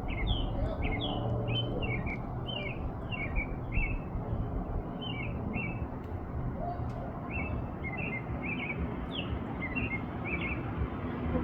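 Male American robin singing its evening song: a long run of short whistled caroling phrases, one after another with a brief pause midway, over a steady low background rumble.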